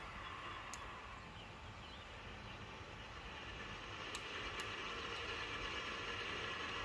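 CSX freight train approaching: a steady rumble and rail noise that grows slowly louder, with a few faint clicks.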